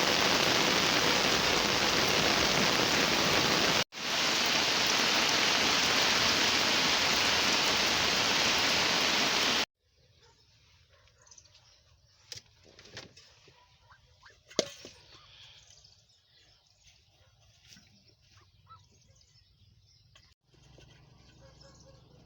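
Heavy rain falling as a steady, even hiss, broken briefly about four seconds in and cutting off abruptly about ten seconds in. After that comes quiet outdoor ambience with scattered light clicks and rustles, including one sharp click about halfway through.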